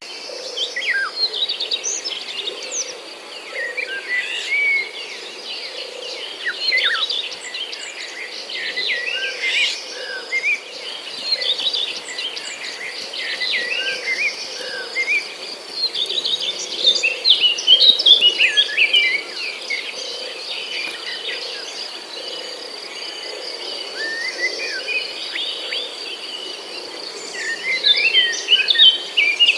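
Several birds chirping and calling over a steady, high insect trill, with a low pulsing call repeating about once a second underneath. The bird calls are busiest about halfway through and again near the end.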